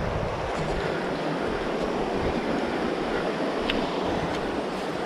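Steady, even rushing noise outdoors, with no clear pitch or rhythm, of the kind made by wind or moving water.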